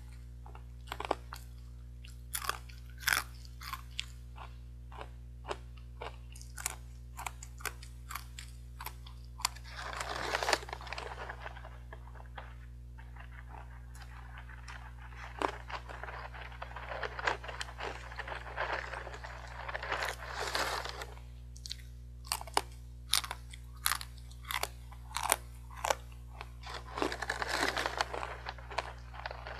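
Hard, crunchy sweet potato sticks being bitten and chewed close to the microphone: a long run of sharp, irregular crunches. Several longer stretches of rustling, from the foil snack bag held at the mouth, come in between. A faint steady electrical hum runs underneath.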